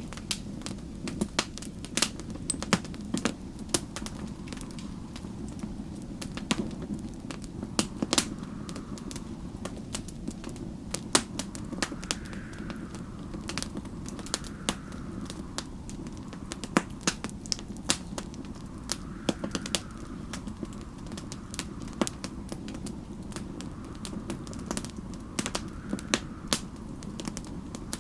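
Wood fire crackling in a fireplace, with frequent irregular sharp pops over a steady low rumble. Faint snowstorm wind rises and falls in pitch every few seconds behind it.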